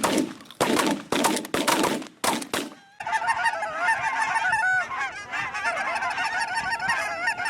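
Several loud sharp noises in the first few seconds, then, from about three seconds in, a large flock of geese honking: many birds calling over one another at once.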